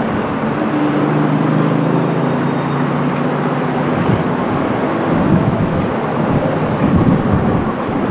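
Jet airliner landing in a strong crosswind: steady engine hum over a wide rushing noise. The hum fades about four seconds in, leaving an uneven low rumble.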